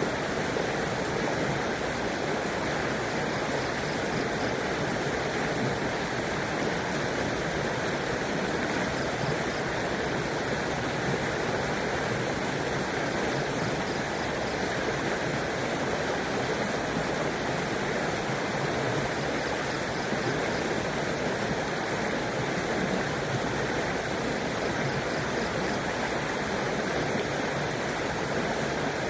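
A river flowing steadily, a constant, even rush of water that does not change.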